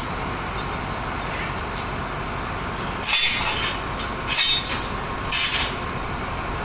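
Train running in a railway station yard, with a steady rumble and hum. Three short, harsh high-pitched sounds come about three, four and five seconds in.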